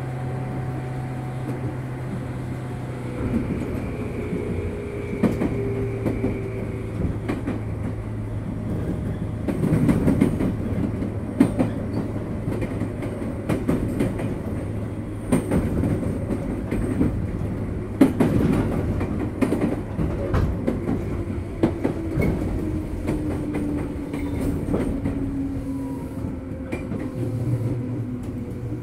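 Interior running sound of a JR 205 series electric train slowing for a station stop. Repeated wheel clacks over the rail joints, with the traction motor whine sliding down in pitch as the train brakes.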